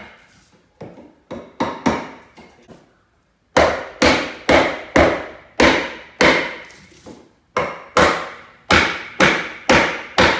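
Window trim being tapped into place with a hammer: a few spaced knocks, then from about three and a half seconds in a steady run of sharp blows, about two a second, each ringing briefly.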